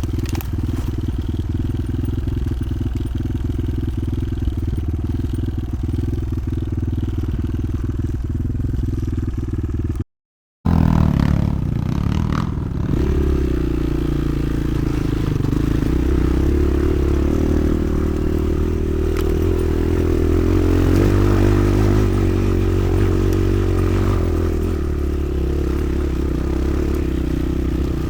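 Motoland XR 300 Lite enduro motorcycle's single-cylinder engine running under way, with clattering and scraping from riding over rough ground. The sound drops out for about half a second around ten seconds in; after that the engine note rises and falls with the throttle.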